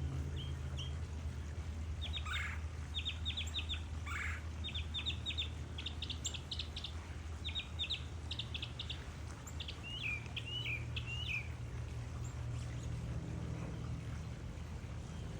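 Birds calling in short clusters of quick high notes, with two longer downward-sweeping calls early on and a run of falling notes about two-thirds through, over a steady low hum.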